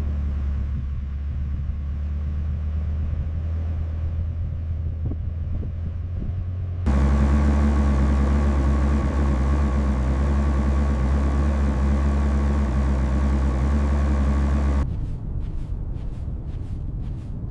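A steady, low engine-like drone that changes abruptly twice: it gets louder and takes on a hum about seven seconds in, then gives way to a gustier, noisier rush near the end.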